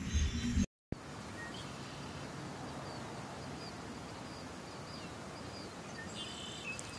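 The tail of background music cuts off abruptly a moment in. After a brief silence comes steady outdoor ambience, a soft hiss with faint high bird chirps repeating about twice a second and a slightly louder call near the end.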